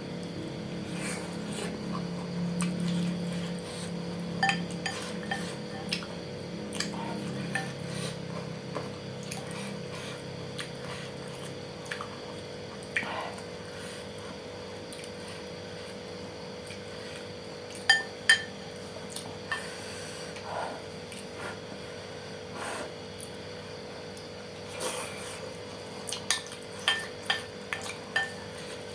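Cutlery clinking against a bowl during a meal: scattered light clinks, two sharp ones about two-thirds of the way in and a quick run of clinks near the end.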